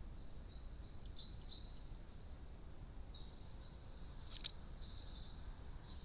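Faint garden-bird chirps over a steady low background rumble, with one sharp tap about four and a half seconds in.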